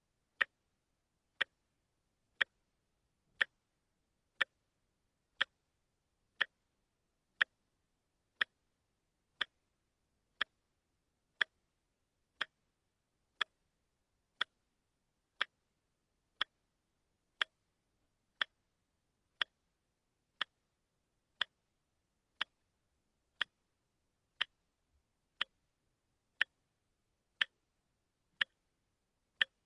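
A watch ticking steadily, one sharp tick each second with silence between.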